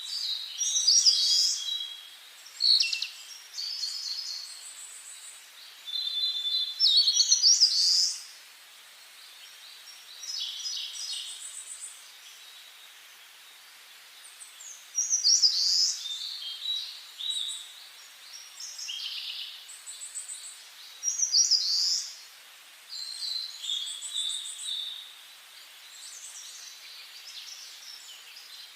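Songbirds singing: short, high phrases of chirps and trills every few seconds, with quiet gaps between them, over a faint steady hiss.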